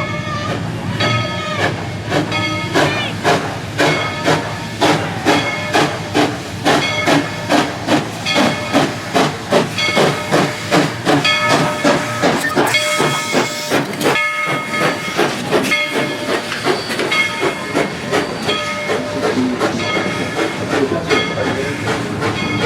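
Steam locomotive working, its exhaust chuffing in a steady rhythm of about two to three beats a second, with a burst of hissing steam about thirteen seconds in.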